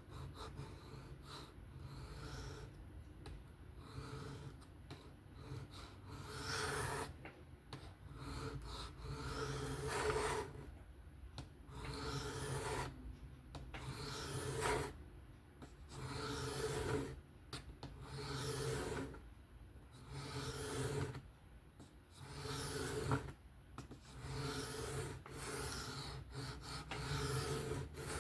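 Steel knife blade stroked back and forth across a sharpening stone: repeated rasping scrapes a second or two long with short pauses between, over a steady low hum.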